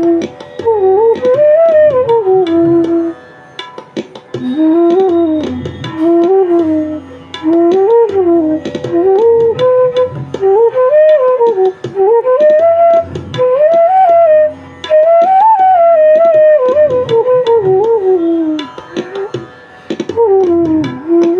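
Bansuri (Indian bamboo flute) in E playing a melody in short phrases of a few seconds each, with gliding, ornamented rises and falls in pitch and brief breaths between phrases.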